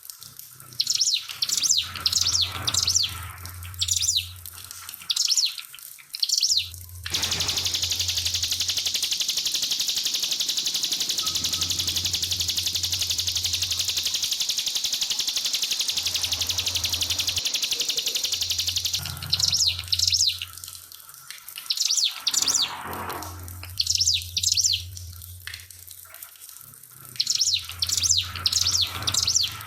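Ciblek pinus (a prinia) singing in quick bursts of high, sharp chirps. About seven seconds in it breaks into one long, fast, even buzzing trill lasting some twelve seconds, then goes back to chirp bursts. Trickling water is mixed in.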